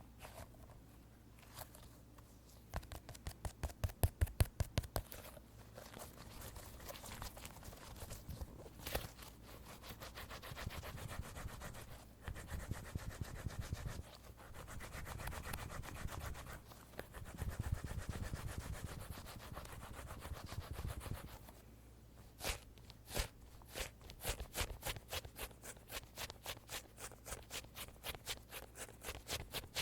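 Fingers tapping and scratching on a soft squishy squeeze toy. Quick bursts of taps give way to a long stretch of rubbing and scratching, then steady rapid tapping at about five taps a second near the end.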